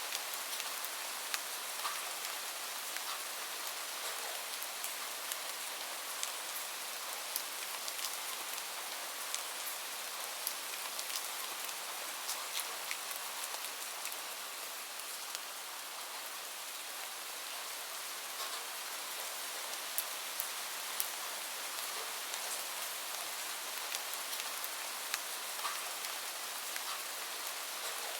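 Steady rain: an even hiss with many individual drops ticking sharply on a surface.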